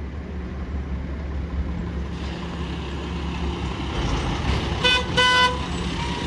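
Mack garbage truck engine running steadily, with two short horn toots close together about five seconds in.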